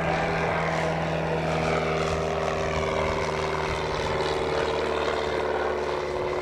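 Light propeller airplane's piston engine running steadily, its pitch falling slightly as it passes by.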